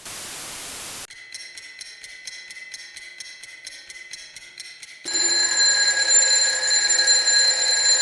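Broadcast news transition music after a second of hiss: a ticking rhythm of about four strokes a second over steady tones, then a louder sustained chord from about five seconds in that fades out at the end.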